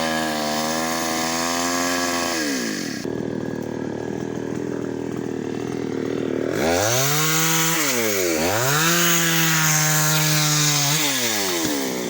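Chainsaw run at high revs while cutting a tree. It drops back to a rough idle about two seconds in, is throttled up again about halfway through with a sharp dip and recovery, and winds down near the end.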